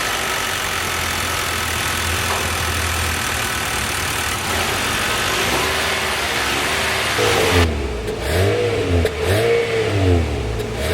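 Nissan Altima 2.5-litre inline-four engine idling steadily just after start-up. From about six seconds in it is revved in a series of quick blips, the pitch rising and falling each time.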